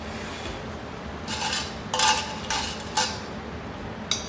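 A metal utensil clinking and scraping against a pan or plate, several short strokes in the middle and two sharp clinks near the end.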